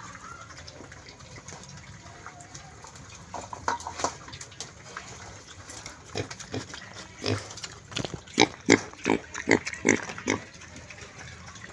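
Pig grunting in short bursts: a few soft grunts about a third of the way in, then a quick run of louder grunts through the second half.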